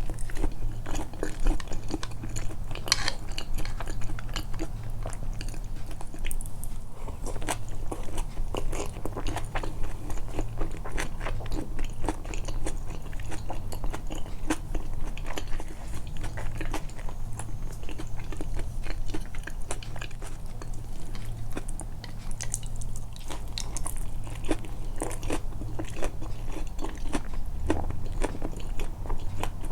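Close-miked eating: biting into and chewing soft, only lightly crunchy tempura and soba, with many irregular wet clicks and smacks of the mouth. A steady low hum runs underneath.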